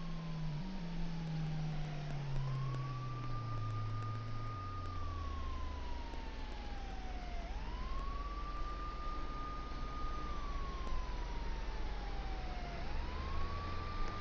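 A siren wailing in slow cycles, each rising quickly, holding and then sliding slowly down, about five seconds apart. Under it a low drone slowly drops in pitch.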